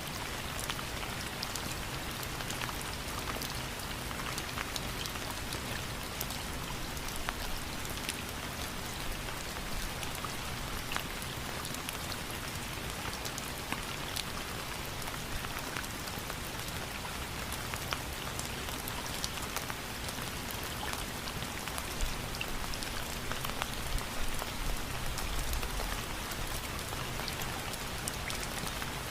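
Steady rain falling on a surface, a dense even hiss scattered with the ticks of individual drops and now and then a louder drip.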